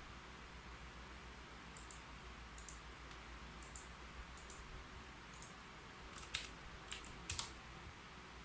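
Keyboard keys being typed slowly: a few scattered, faint key clicks over a low hiss, with a short run of louder keystrokes near the end.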